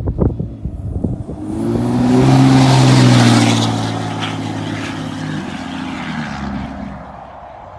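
A Cummins 5.9 inline-six turbo diesel through a 4-inch straight-pipe axle-dump exhaust revs up about a second and a half in, with a rising high turbo whistle, holds briefly, then eases off and fades.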